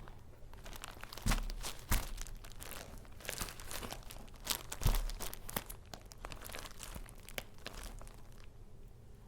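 Paper crinkling and rustling as handmade junk journal paper goods are handled, in irregular crackles, with soft thumps about a second in, at two seconds and near five seconds.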